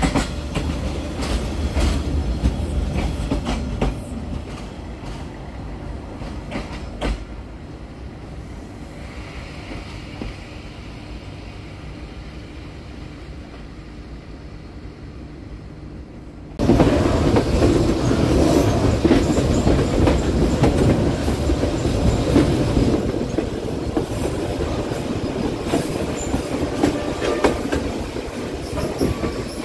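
SE11 passenger train running on the track: steady rail noise that fades somewhat over the first half, then jumps suddenly louder about 17 seconds in, with many sharp clicks and clatter.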